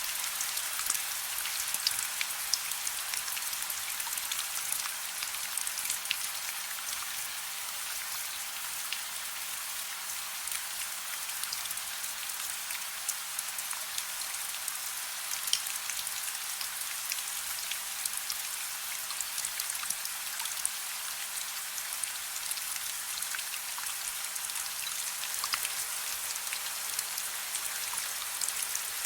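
Steady soft rain: an even hiss of falling rain with many small, distinct raindrop ticks.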